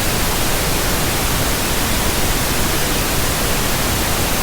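Loud, steady television static: the hiss of a TV with no signal, like a broken set.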